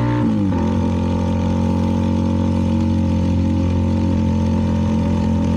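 CFMoto 300NK's single-cylinder engine through a KO aftermarket exhaust, heard from the rider's helmet while riding. The engine note drops in pitch about half a second in as the revs fall, then runs at a steady pitch.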